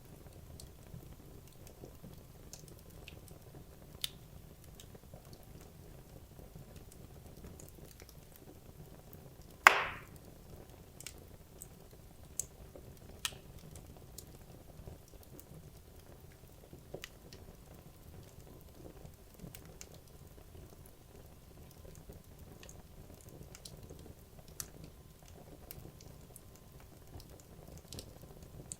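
Wood logs burning in a fireplace over a low steady hiss, crackling with scattered small pops and one loud sharp pop about ten seconds in.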